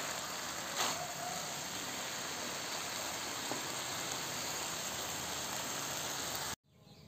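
Steady sizzling hiss of a long-bean, tempeh and anchovy stir-fry in a metal wok, with one short clink about a second in. The sizzle cuts off abruptly near the end.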